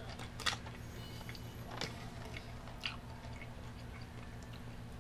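A person chewing soft gummy candy, with a few sharp crinkles as a hand digs into the plastic candy bag, over a steady low hum.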